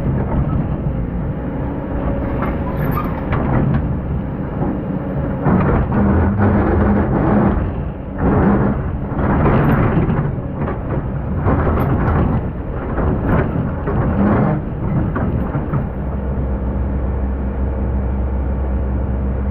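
Hydraulic excavator's diesel engine running under load, with repeated scraping bursts roughly once a second between about 5 and 15 seconds in, as the bucket digs through hard-packed old sand. Near the end the engine settles into a steadier low drone.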